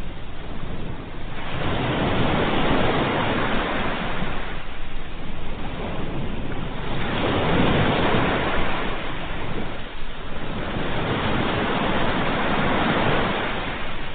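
Ocean waves breaking and washing up the shore, the surf swelling and falling back about three times, a wave every three to four seconds.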